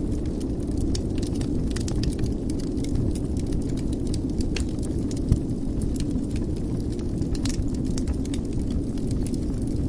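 Wood fire burning in a fireplace: a steady low rumble of the flames with frequent sharp crackles and pops, and one louder low pop a little past five seconds in.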